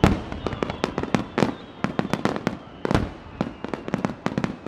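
Aerial fireworks finale barrage: shells bursting in rapid succession, several sharp bangs a second with echoing booms, the heaviest right at the start and again about three seconds in.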